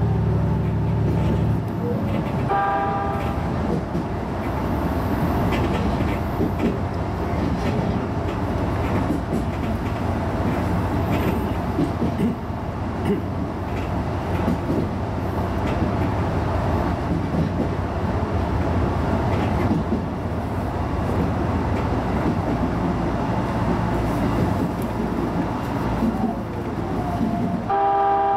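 HB-E210 diesel-hybrid railcar running along the track with a steady rolling rumble. A low engine hum stops about two seconds in, and a short pitched tone sounds shortly after that and again near the end.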